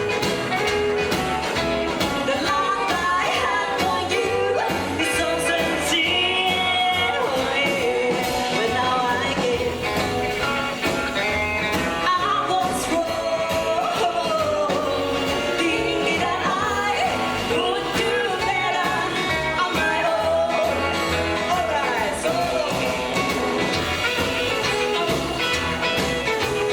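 A live rockabilly band playing a song, with a steady beat and a wavering melody line over it.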